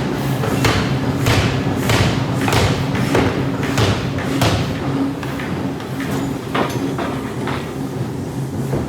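Forging power hammer striking hot steel in a steady run of blows, a little under two a second, over a steady machine hum.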